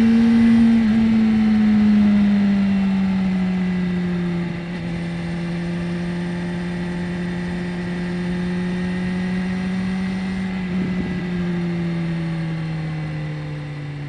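BMW S1000R inline-four engine running under way at a steady pace, its note easing slowly lower, with a slight drop in loudness about four and a half seconds in.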